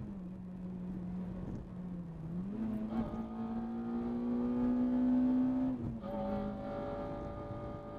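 Honda Integra Type R's 2.0-litre K20 four-cylinder engine running hard under load, heard from inside the cabin. Its pitch drops just after the start, jumps back up about two and a half seconds in and climbs steadily, then drops again about six seconds in, with brief clicks about three and six seconds in.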